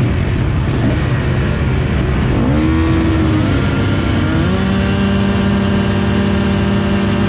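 KTM 450 SX-F single-cylinder four-stroke motocross bike engine revving up about two and a half seconds in, then held at a steady high pitch for several seconds, over a rumble of other motocross engines.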